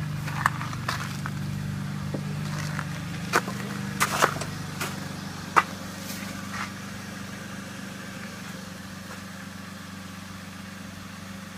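BMW E46 323i's 2.5-litre inline-six with a Magnaflow exhaust idling steadily during warm-up after a cold start, slowly getting quieter. A few sharp clicks and knocks come over it in the first half.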